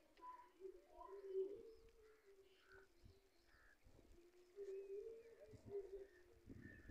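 Faint bird calls: low, repeated cooing phrases with a few higher chirps, and some soft low knocks near the end.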